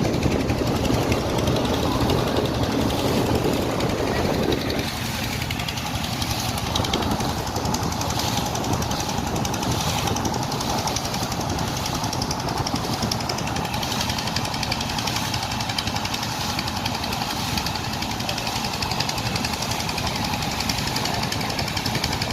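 Motorboat engine running steadily with a rapid, even beat. It eases slightly about five seconds in.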